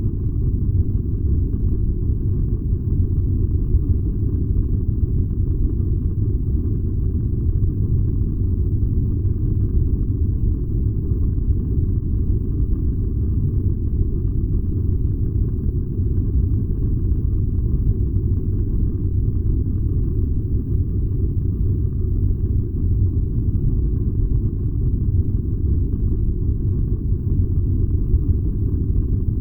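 Furnace running with a steady, deep rumble that holds unchanged throughout.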